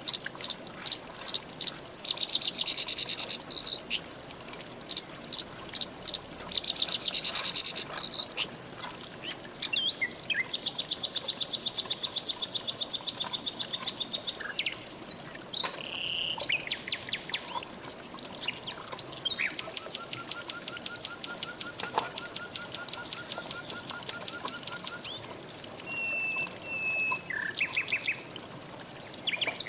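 Several songbirds singing and calling, with bursts of quick chirps and rapid trills, some repeated many times a second, over a steady high insect buzz and a soft hiss of flowing water.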